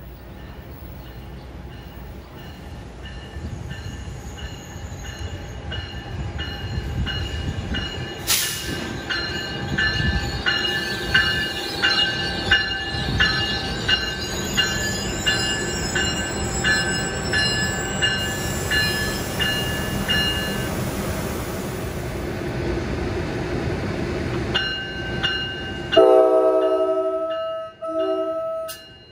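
A passenger train passing, its rumble building and its wheels clicking regularly over rail joints. Near the end a train horn sounds, one long blast and then a short one.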